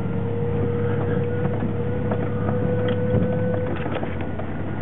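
Siren-like whine from the rear end of a 2003 Chevrolet S-10 pickup's driveline: a steady single tone over the engine and road drone at about 20 mph. It cuts out suddenly a little under four seconds in. It is a noise the truck makes in freezing weather, with the differential and transmission fluid full and in good shape. Small rattles from the cab run underneath.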